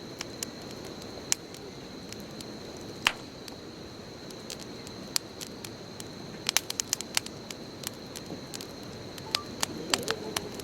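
Wood bonfire crackling: sharp pops and snaps scattered over a steady hiss of burning, with a quick flurry of pops about two-thirds of the way through and more near the end.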